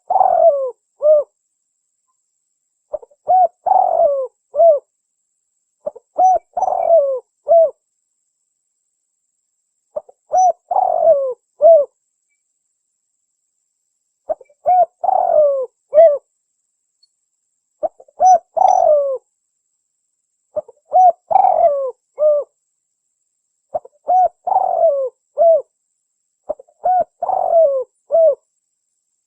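Spotted dove (tekukur) cooing: a short phrase of several rounded coo notes, repeated about every three seconds, nine times over.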